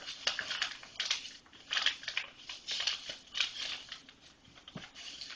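Sheet of paper rustling and crinkling as it is handled, folded and creased by hand, in short uneven bursts.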